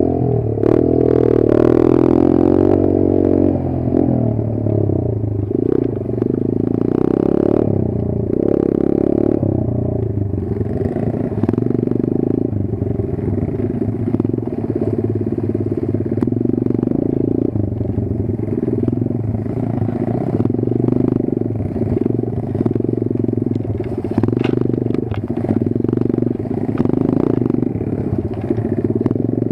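Kayo 140 pit bike's single-cylinder four-stroke engine running under riding load, the revs rising and easing every second or two, with scattered knocks and clatter over it.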